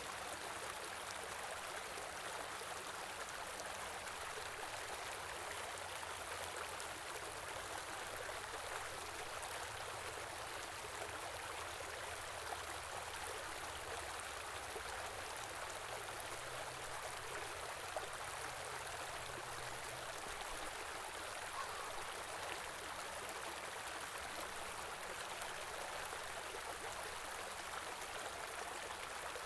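Small stream running steadily over rocks, a continuous rushing and burbling of flowing water.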